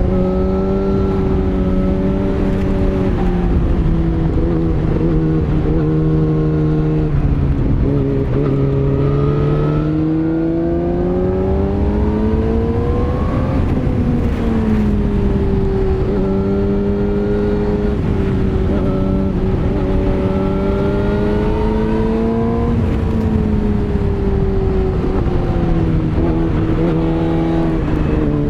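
Yamaha YZF-R6's inline-four sportbike engine running under way. Its note climbs steadily as the bike accelerates, drops back, and climbs again, over a steady rushing noise.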